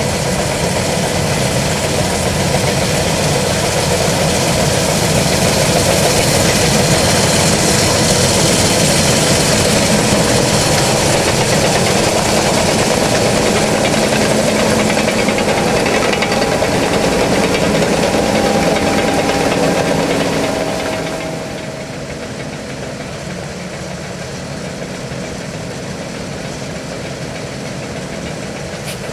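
John Deere S660i combine harvester running: a loud, steady engine and machinery noise with a strong hiss. About twenty seconds in, it drops clearly in level and the hiss fades.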